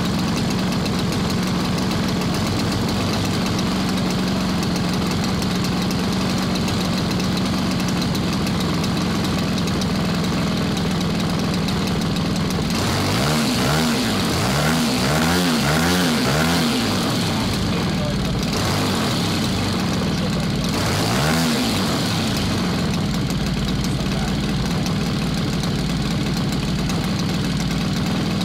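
MVVS-80 model engine running steadily. Partway through it is revved up and down several times in quick succession, then once more briefly, before settling back to a steady note.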